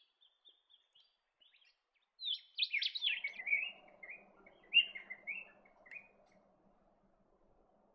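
Rainbow bee-eaters calling: faint trilled chirps at first, then a livelier run of short, rolling, downward chirps a couple of seconds in, tailing off well before the end, over a faint low background hum.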